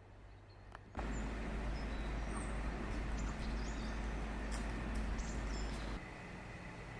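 Outdoor ambience: a steady low rumble with a few short, high bird chirps, starting suddenly about a second in and dropping away about a second before the end.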